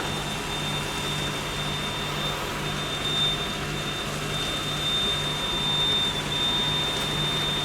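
Steady mechanical running noise with a constant high whine and a low, evenly pulsing hum.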